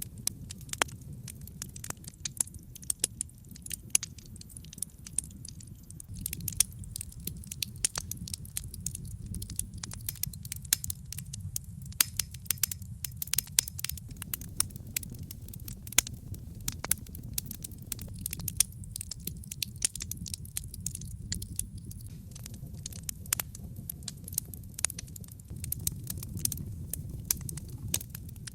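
Wood logs burning in a brick fireplace: a steady low rumble of flames with frequent sharp crackles and pops from the burning wood.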